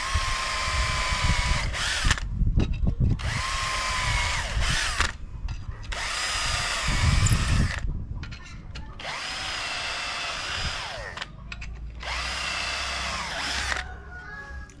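Electric power drill run in repeated bursts of one to two seconds, its motor whine dropping in pitch as each burst winds down, with a few low thuds between the bursts.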